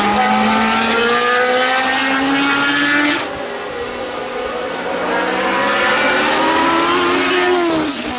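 Tyrrell P34's Cosworth DFV V8 racing engine accelerating hard, its pitch rising steadily. About three seconds in the sound cuts abruptly to a duller recording, where the engine climbs in pitch again and drops near the end.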